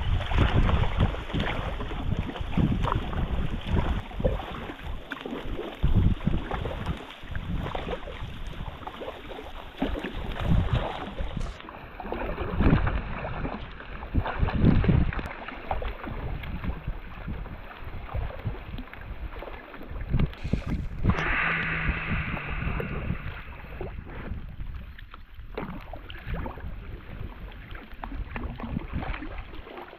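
Wind buffeting the microphone in irregular gusts over a steady hiss of rain, aboard a rowing boat on a river.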